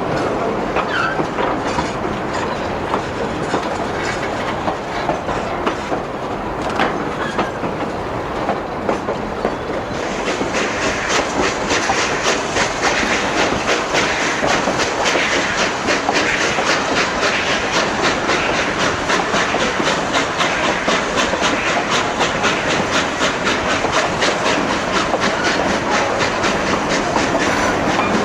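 Durango & Silverton narrow-gauge train rolling along the track, its wheels clicking rhythmically over the rails. The clatter turns louder and brighter about ten seconds in.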